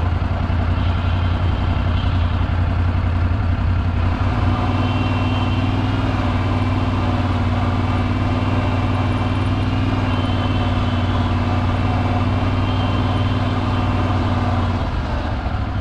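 Kohler Command V-twin engine running steadily while the vehicle drives along, a continuous low engine hum. The note settles into a steadier tone about four seconds in and eases slightly near the end.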